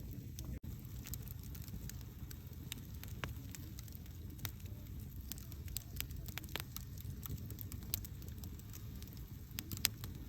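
Wood campfire burning, with frequent irregular crackles and pops over a steady low rumble of the flames. The sound cuts out for a moment about half a second in.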